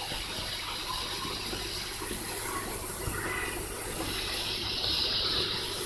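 Steady rush of running water in the beaver pool, getting a little brighter and hissier for about a second near the end.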